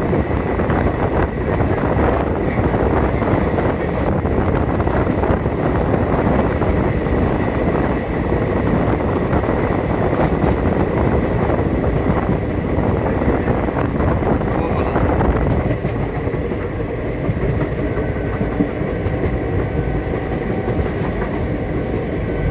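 Passenger train running along the track: a steady rumble with continuous wheel clatter on the rails, easing a little past the middle.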